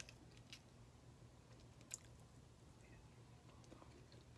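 Faint chewing and mouth sounds of someone eating, with a few soft clicks, the sharpest about two seconds in.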